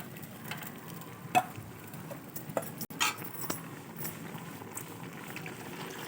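A metal spoon stirring chicken in a cooking pot, clinking against the vessel a few times, loudest about a second and a half in, over the steady sound of the chicken cooking.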